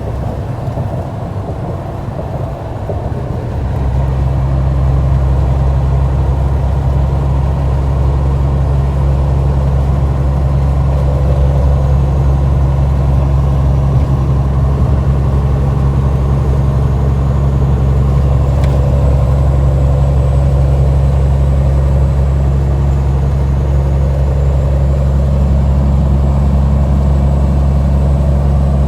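Semi-truck's diesel engine running under way, a steady low drone. It picks up and grows louder about four seconds in, then holds steady.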